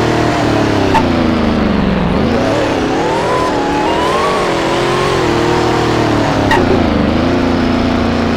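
Car engine running under changing throttle, its pitch dropping, climbing and wavering up and down several times. Two brief clicks sound, about a second in and again near the end.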